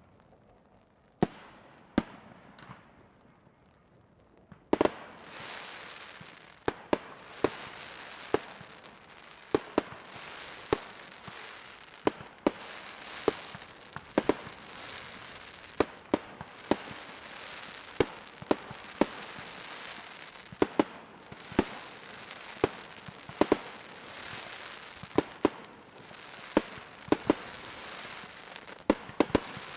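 Aerial firework shells bursting in a display: sharp bangs, sparse at first. From about five seconds in they come thick and fast over a dense continuous crackle.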